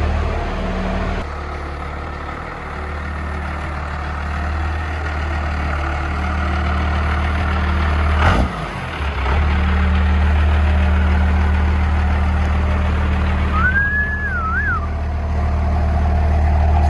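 Cummins diesel engine in a GMC truck running steadily through a 7-inch straight exhaust, with a low, even drone. A short high whistle rises and falls about 14 seconds in.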